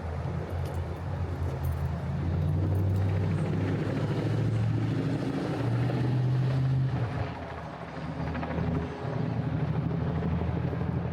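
Low engine rumble, a steady hum that shifts in pitch in steps, loudest from about two to seven seconds in, then easing and picking up again.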